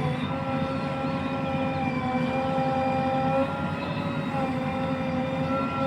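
Heavy machinery engine running steadily, with a steady whine of even-pitched tones that dips slightly in pitch a couple of times.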